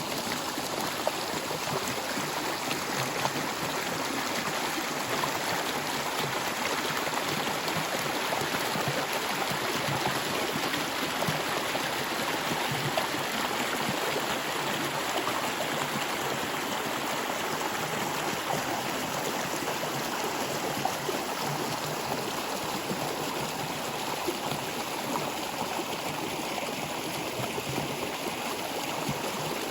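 Water of a stream flowing and gurgling steadily over stones.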